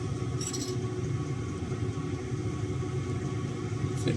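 A steady low mechanical hum, with a single short high click about half a second in that fits a phone camera shutter.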